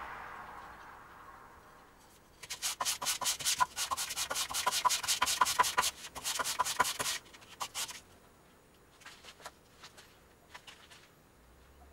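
Hand sanding of a forged knife: quick back-and-forth abrasive strokes for several seconds starting about two seconds in, then a few scattered strokes near the end.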